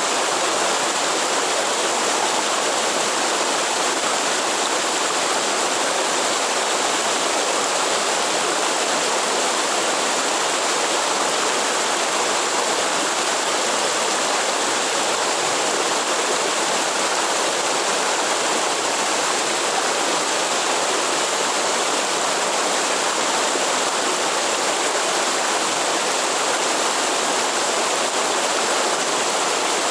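Waterfall in the Atlantic Forest: water falling and rushing over rock, a steady, unbroken hiss.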